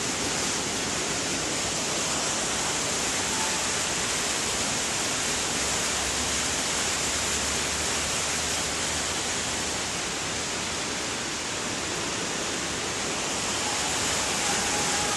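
Steady rushing of water, an even hiss without breaks.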